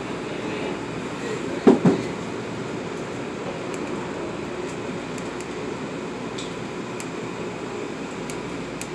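Metro-North M8 electric train running, heard from inside the passenger car as a steady rumble. Two sharp knocks come close together about two seconds in.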